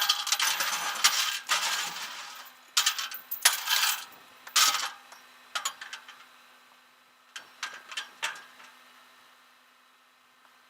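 Metal clinking and rattling: a jangling clatter for about two seconds, then several shorter clinks and a few fainter clicks.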